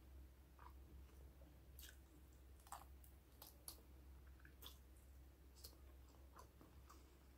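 Faint, scattered wet mouth clicks and chewing from eating a piece of fried chicken off the bone, close to the microphone.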